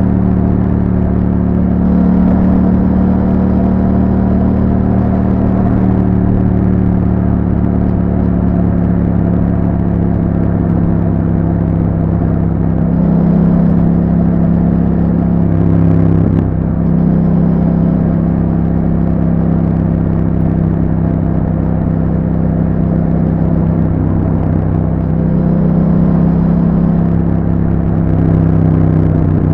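A 2021 Yamaha MT-07's 689 cc parallel-twin engine runs through an Akrapovič exhaust fitted with a YAHOM dB killer, heard as the bike cruises at a fairly steady engine speed. The pitch shifts a few times, with a brief drop about halfway through.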